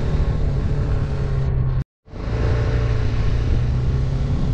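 BMW G310R's single-cylinder engine running steadily at riding speed, with road noise. The sound cuts out completely for a split second about two seconds in, then resumes.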